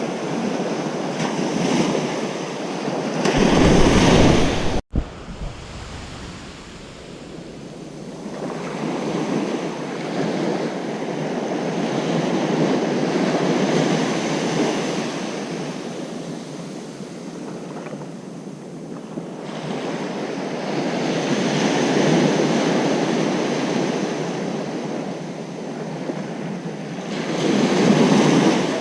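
Ocean surf on a beach: waves breaking and washing in, swelling and fading every several seconds. About four seconds in comes a louder surge with a deep rumble, cut short by a sudden brief dropout in the sound.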